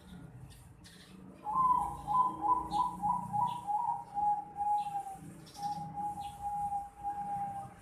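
Young Bangkok-strain zebra dove (perkutut), about 4.5 months old, cooing: a second and a half in, a quick stuttering run of short coos, then a long level coo held for about two seconds near the end.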